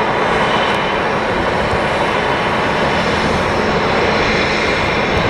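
Jet airliner engines, a steady loud rush of noise that holds level throughout.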